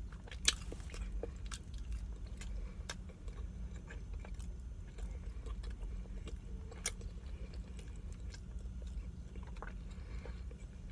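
Close-up chewing and biting of rotisserie chicken, with wet mouth smacks and small irregular clicks and a sharp click about half a second in, over a steady low hum.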